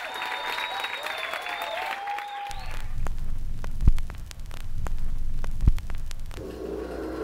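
Audience applause with a few whistles that stops about two and a half seconds in. A low hum follows, with scattered clicks and two heavy thumps.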